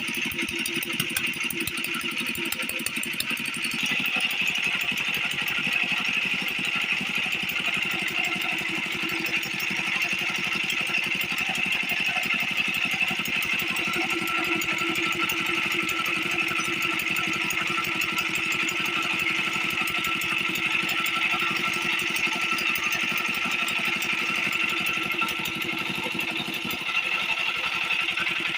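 An 8 HP single-cylinder diesel water-pump engine running steadily with a rapid, even firing beat, a little louder from about four seconds in.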